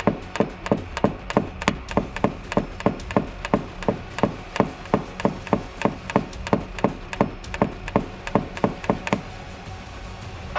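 Rapid, evenly spaced hammer taps, about three a second, stopping about nine seconds in. This is a paintless dent repair tap-down, a knockdown tool being struck to flatten high spots on a car body panel.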